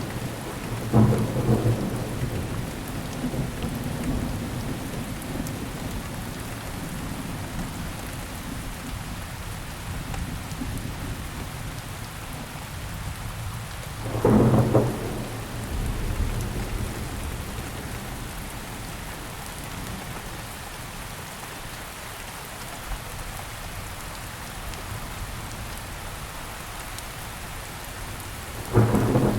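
Steady rain falling, with short, loud thunder rumbles about a second in, again about halfway through, and once more at the very end.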